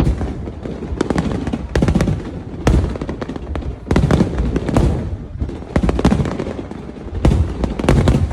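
Aerial fireworks exploding in quick succession: deep booms with crackling bursts, several a second at times.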